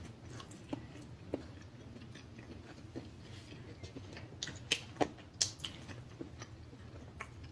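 Close-miked eating sounds: chewing with wet mouth clicks and lip smacks, a few sharper smacks bunched together in the middle.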